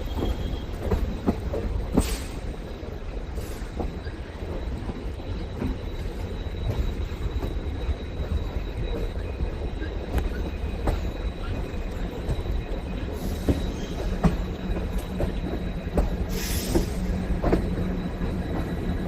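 Moving train's wheels running on the rails: a steady low rumble with irregular clicks over the rail joints, and two short hissing rushes, one about two seconds in and one near the end.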